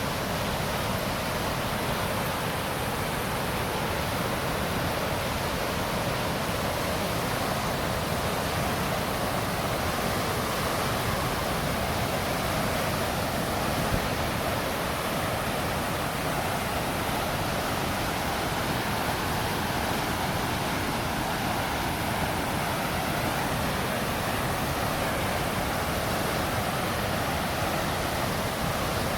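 River in flood after heavy rain, running high and fast: a steady, unbroken rush of water.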